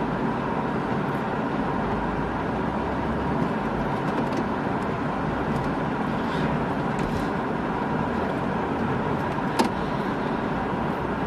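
Car running, heard from inside the cabin, as it tries to reverse out of a snowed-in driveway and gets stuck. The noise is steady, with one sharp click about nine and a half seconds in.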